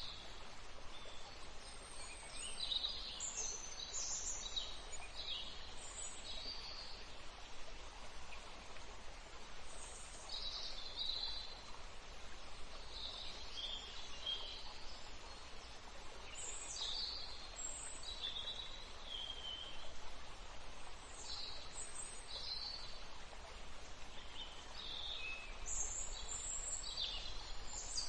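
Wild birds calling and chirping: short, high calls come every second or two, several overlapping at times, over a steady background hiss.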